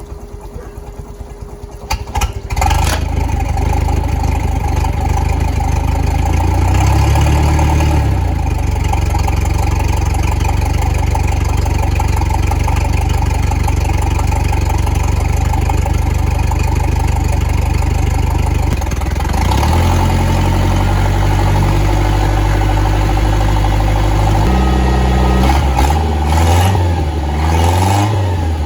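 MerCruiser 120 hp sterndrive engine on flushing muffs cranking on the starter and catching about two and a half seconds in, on its first start since winterizing. It then runs steadily, with the revs raised and lowered several times, dropping back about 19 seconds in and rising and falling again near the end.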